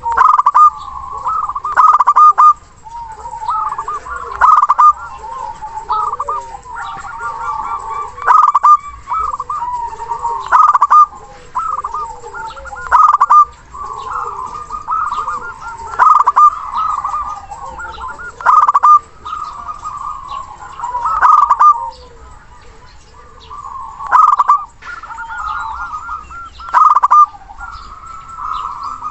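Local zebra dove (perkutut) singing its cooing song over and over. Each phrase is a run of quick, rolling coos, with a loud stressed note every two to three seconds.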